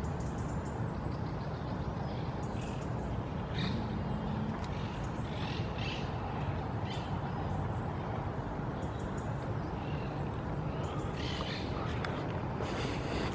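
Wild birds calling with short, scattered high chirps, and one brief low call about four seconds in, over a steady low background rumble.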